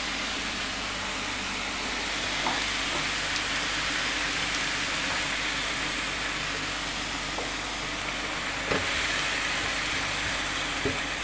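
Mince, onion and tomato sizzling steadily in a frying pan, the half cup of water just poured in boiling off. A few light knocks of a spatula stirring come near the end.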